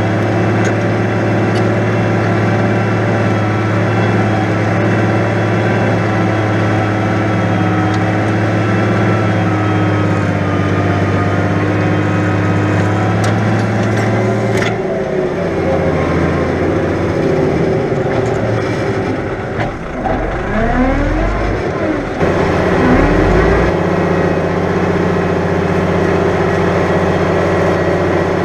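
New Holland 100-90 tractor's diesel engine working hard under ploughing load in heavy wet ground. Its note runs steady, then about halfway through drops in pitch and wavers for several seconds, with a sharp knock as it changes, before settling steady again near the end.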